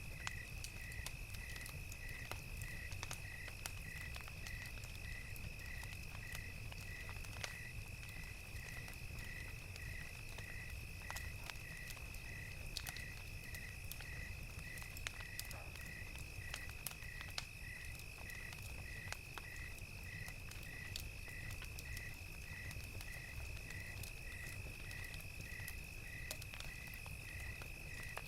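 Crickets chirping in an even rhythm, about twice a second, over a continuous high insect trill, with scattered pops and crackles from a wood fire and a low steady rumble beneath.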